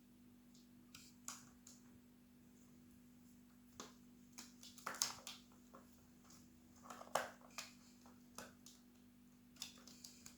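Faint, scattered soft taps and scuffs, irregular and unrhythmic, the loudest about halfway through, over a steady low hum.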